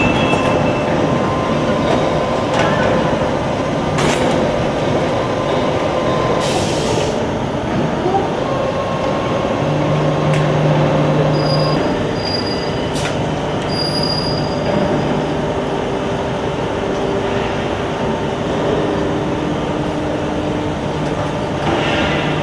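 Automatic HVAC duct production line for sheet-metal ductwork running: steady machine noise with a few sharp metallic knocks, a brief hiss about six seconds in, and a low hum that grows stronger about ten seconds in.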